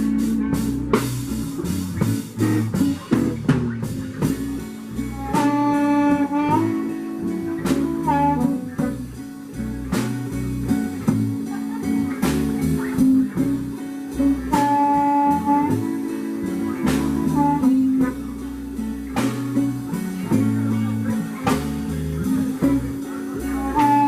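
Blues band playing an instrumental break with guitar, bass and drums. A lead instrument holds high notes that bend at their ends three times.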